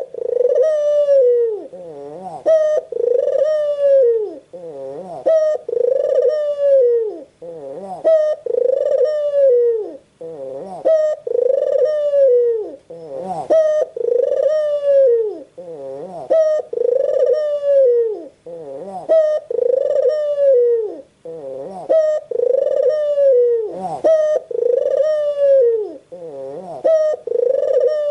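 White puter dove (Barbary dove) cooing over and over, about one call every two seconds. Each coo swells up and falls away in an arch, with a short lower note between calls.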